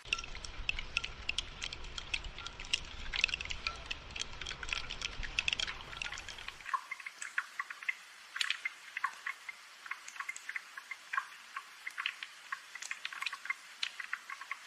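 Rain falling as a dense patter of many close, separate drips. A low background rumble underneath stops abruptly about six and a half seconds in, while the dripping goes on.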